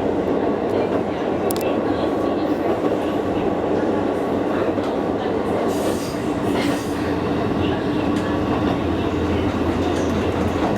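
A train running along the track, heard from inside the carriage: a steady rumble of wheels on rail with a low hum, and a few faint ticks over the rail joints.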